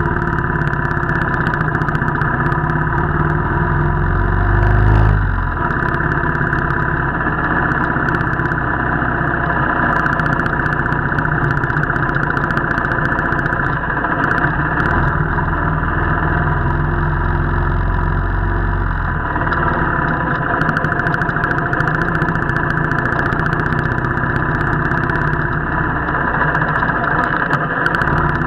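Royal Enfield motorcycle engine running steadily, briefly louder in the low end about five seconds in.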